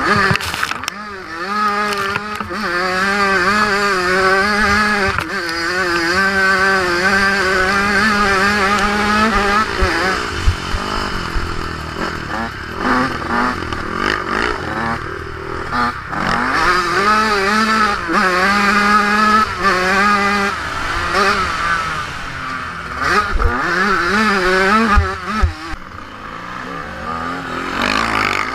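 Yamaha motocross bike's engine at hard riding revs, its pitch rising and dropping as the throttle opens and closes and the gears change, with wind noise and knocks on the onboard camera.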